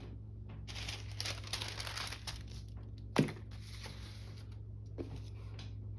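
Paper rustling and crinkling as craft pieces are handled, with a sharp tap or click about three seconds in, over a steady low hum.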